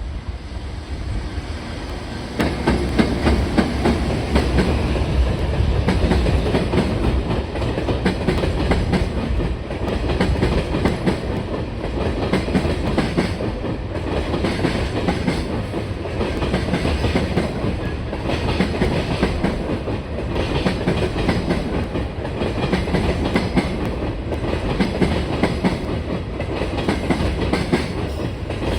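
Freight train hauled by a JR Freight EF210 electric locomotive passing, its wagons' wheels clattering steadily over the rail joints. The sound jumps louder about two seconds in and holds as the train rolls by.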